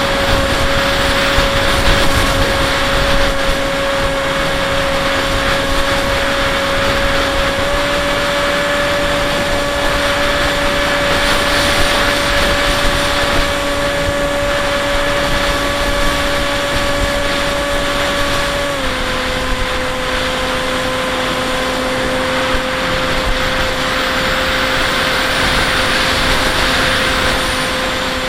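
Bixler 1.1 RC plane's electric motor and propeller whining at a steady pitch over rushing wind noise, heard from the onboard camera. The pitch steps up slightly about seven seconds in and drops a little at about nineteen seconds.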